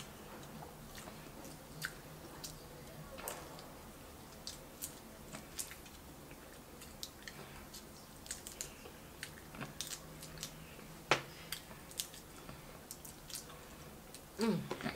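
Close-miked mouth sounds of eating a boiled shrimp by hand: wet chewing and biting with scattered small clicks and crackles, and one sharper click about eleven seconds in.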